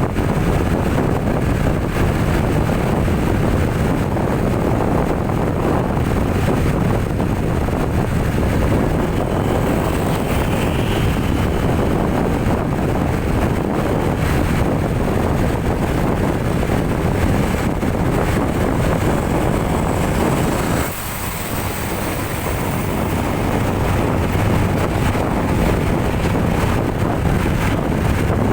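Steady engine and road noise from a moving vehicle, with wind buffeting the microphone; the noise dips briefly about two-thirds of the way through, then builds back up.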